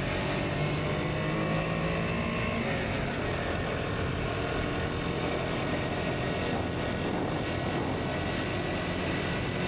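KTM Duke 125's single-cylinder engine running under way through an Akrapovic exhaust, its note shifting in pitch about three seconds in, over a steady rushing noise of wind.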